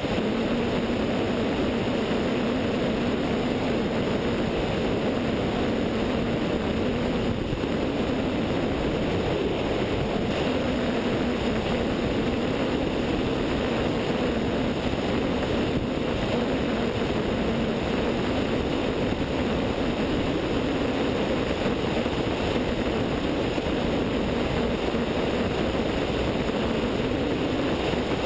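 The Continental O-200 engine and propeller of a Zenith light sport aircraft running steadily in flight, heard through wind rush on a wingtip-mounted camera.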